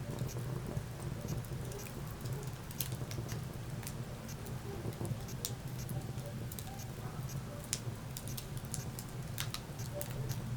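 Wood fire crackling in a fireplace: irregular sharp snaps and pops, several a second, over a steady low rumble of the burning.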